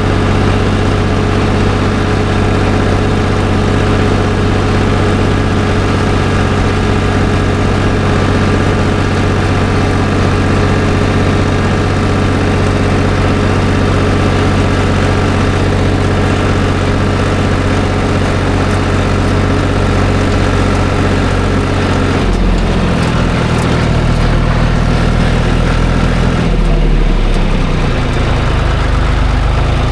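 Tractor engine running steadily under way; about two-thirds of the way through its note drops lower and then wavers near the end as the engine speed changes.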